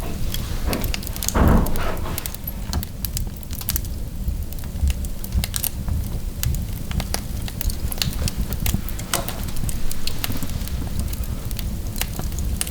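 Wood fire burning in a fireplace: many irregular crackles and pops over a steady low rumble of the flames, with one louder rush about a second and a half in.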